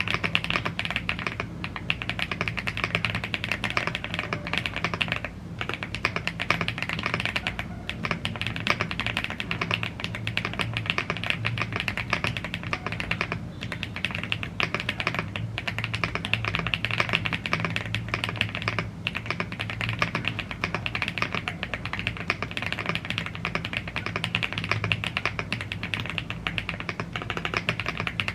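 Continuous fast typing on a YUNZII AL75 CNC aluminium, gasket-mounted mechanical keyboard with Blue Grey tactile switches and double-shot PBT keycaps: a dense stream of keystrokes, broken by a few brief pauses.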